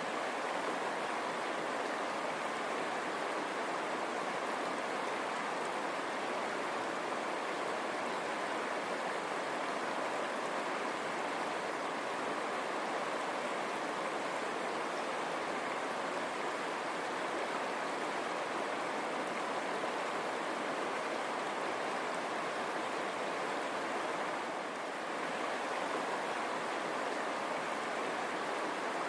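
Shallow river running over stones: a steady, even rush of water.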